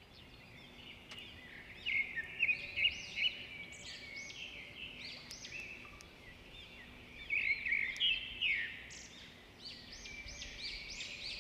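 Several small birds chirping and singing at once, many quick overlapping calls that get busier twice, a couple of seconds in and again about halfway through.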